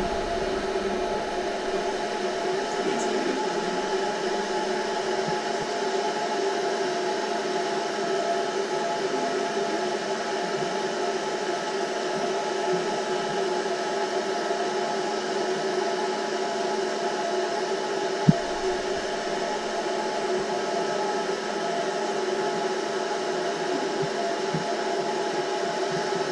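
Vacuum cleaner running steadily with an even motor whine over a rush of air, used on chair cushions, with a single knock about two-thirds of the way through.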